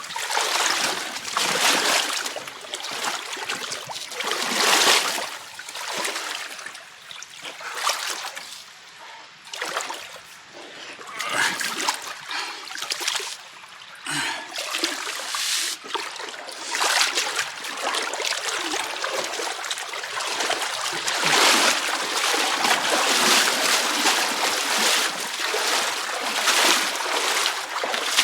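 A person wading through a knee- to waist-deep pool of water, sloshing and splashing in repeated surges, one every second or two.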